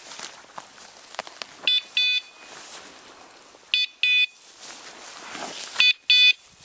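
A hunting dog's electronic beeper collar beeping: three pairs of short, high beeps, about two seconds apart, over the rustle of footsteps in brush.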